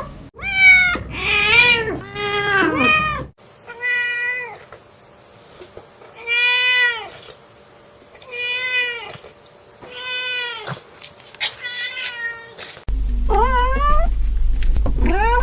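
Domestic cats meowing repeatedly, about a dozen separate meows that each rise and fall in pitch. Several come in quick succession at the start, then one every second or two.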